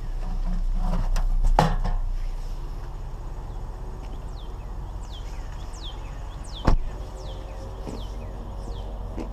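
A bird calling over and over with short high chirps that drop in pitch, over a steady low rumble. A clatter comes about one and a half seconds in, and a sharp knock, the loudest sound, just before seven seconds.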